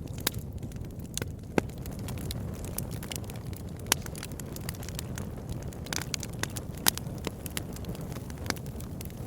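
Campfire burning steadily with a low rumbling hiss and irregular crackles, and a few louder pops of burning wood.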